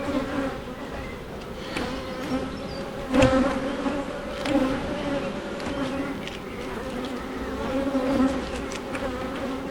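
Honey bees buzzing around an open hive, a steady, wavering hum of many wingbeats. A short knock sounds about three seconds in.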